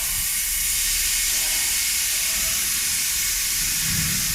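Plasma cutting torch cutting metal pipe: a loud, steady hiss of the arc and air jet that started suddenly just before and holds evenly.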